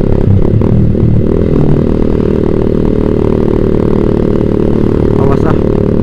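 Yamaha Vixion's single-cylinder engine running through a Proliner TR1 short aftermarket exhaust while riding; the engine note shifts during the first couple of seconds, then holds steady at cruising speed.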